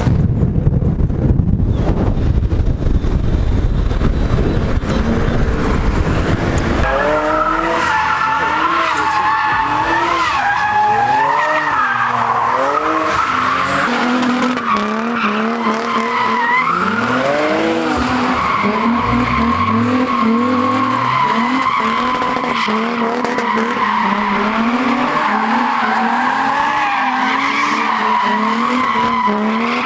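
Car drifting: the engine revs up and down over and over, with tyre squeal. There is a heavy low rumble for the first several seconds before the revving pitch becomes clear.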